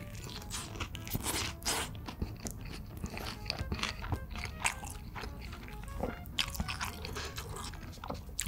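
Close-up biting and chewing of a cheeseburger with lettuce: a run of many short crunches and mouth sounds, over soft background music.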